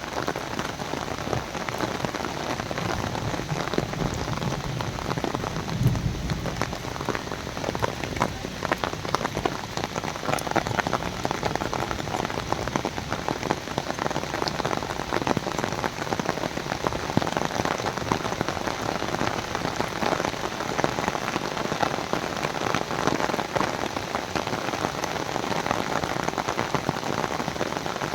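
Rain pouring steadily, a dense, even patter of countless drops, with a short low rumble about five seconds in.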